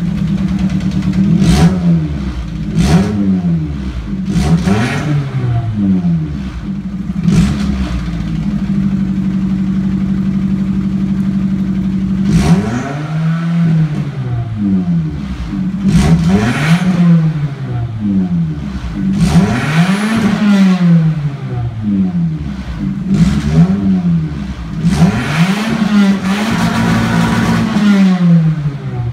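1994 Nissan Sentra's 1.6-litre GA16DE four-cylinder running with its muffler broken off, effectively straight-piped, revved over and over in quick blips from idle. About a third of the way in it settles to a steady idle for a few seconds, then the revs come back higher and harder.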